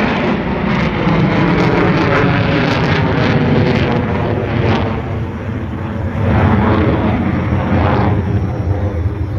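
F-22A Raptor's twin Pratt & Whitney F119 afterburning turbofans running loud during the low-speed falling-leaf maneuver. It is a continuous jet rumble that dips a little about five seconds in and then swells again.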